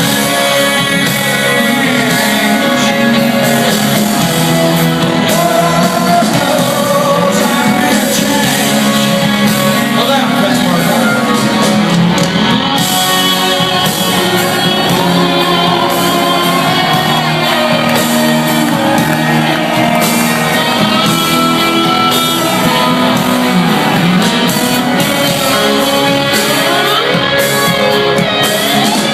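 Rock band playing loudly with electric guitar, its notes bending and sliding up and down in pitch, and a voice singing or shouting over it.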